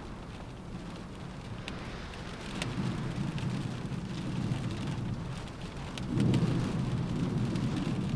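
Rain falling on a window, with separate drops ticking against the glass. A low rumble swells about three seconds in and is loudest a little after six seconds.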